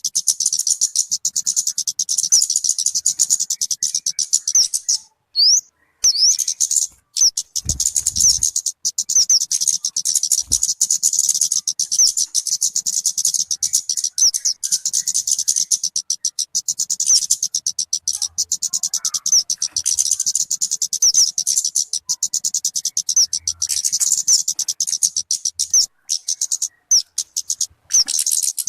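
Song of the bird called talokan or kemade in Indonesia: a fast, unbroken stream of high-pitched chirps and twittering trills, which stops briefly a few times, longest about five seconds in.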